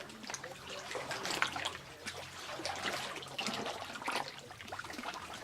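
Kayak paddles dipping into calm sea water and dripping, giving a run of irregular small splashes and trickles.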